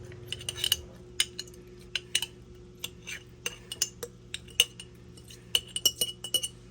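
Fork clinking and scraping against a bowl while shredding cooked chicken: irregular sharp clinks, some ringing briefly, a few in quick succession near the end.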